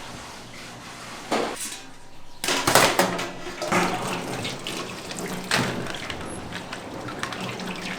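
Water running from a tap into a sink in several short gushes, the loudest about three seconds in, over a steady low hum.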